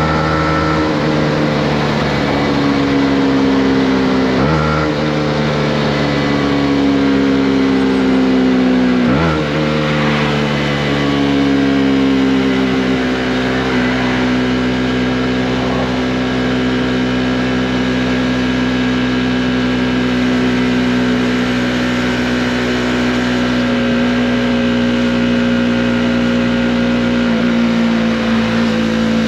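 Honda CB125R's single-cylinder four-stroke engine heard while riding. The engine note sinks slowly, with two short breaks about 4.5 and 9 seconds in as the gears change, then holds nearly steady at cruising speed.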